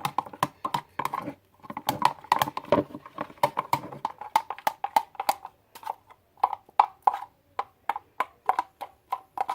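A spoon knocking and scraping against a bowl while stirring glue and yellow food colouring for slime: quick, irregular clicks and taps, several a second, with a brief pause about one and a half seconds in.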